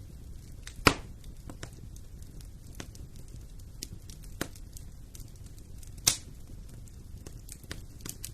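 Fire burning in a fireplace, crackling steadily with scattered small snaps over a low rumble, and two loud sharp pops, about a second in and about six seconds in.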